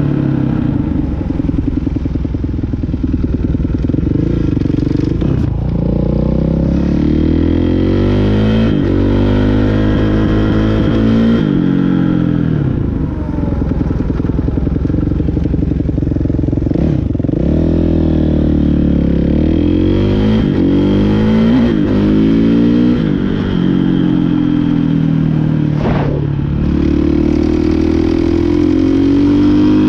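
Motorcycle engine accelerating hard through the gears, its pitch climbing and then dropping sharply at each shift, about six times in a row.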